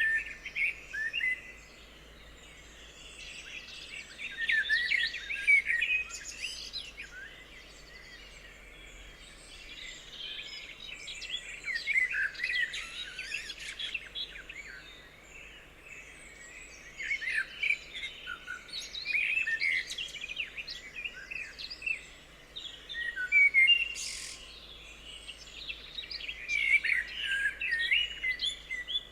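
Forest songbirds chirping and singing, several calls overlapping, in bouts a few seconds long with quieter lulls between.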